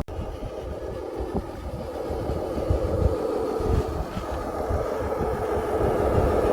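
Steady whine of a radio-controlled model truck's small electric drive and gears, dipping in pitch and then rising and growing louder, over an uneven low rumble.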